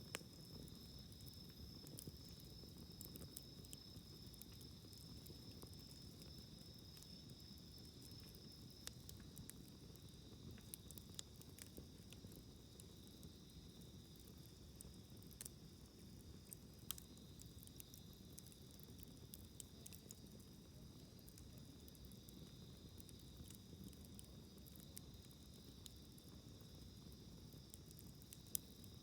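Wood campfire burning quietly, with scattered small sharp crackles and pops over a low, soft rumble, against a steady high-pitched trill.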